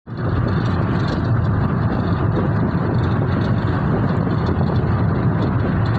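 Steady rumble of a car in motion, road and engine noise without change in pitch.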